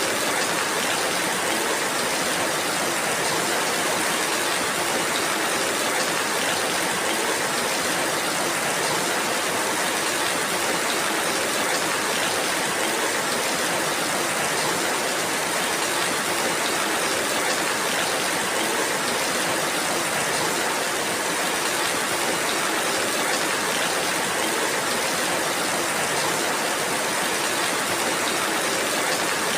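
Steady rainfall: an even, unbroken hiss with no single drops or other events standing out.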